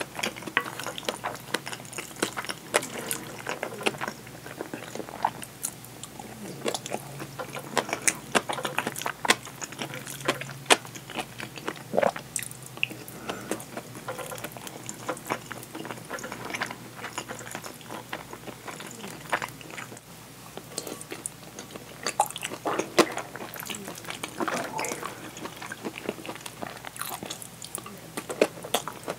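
Close-miked chewing and wet mouth sounds of eating curry and rice, with a wooden spoon scraping and tapping a ceramic bowl between bites.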